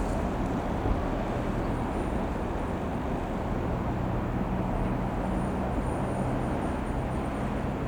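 Comco Ikarus C-42 microlight's single piston engine running with a steady drone and low hum, and a faint high whine from about two seconds in.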